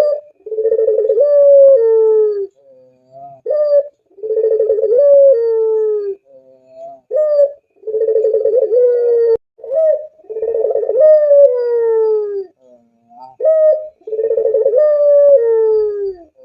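Puter pelung dove (domestic Barbary dove) cooing: about five long, low coos of roughly two seconds each, with a short higher note between them.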